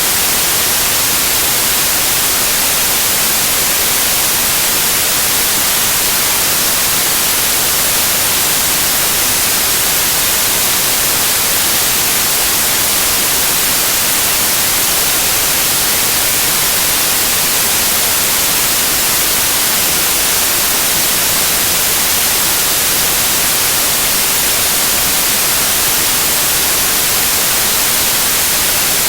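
Continuous loud white noise: a steady, even hiss, brightest in the treble, that does not change.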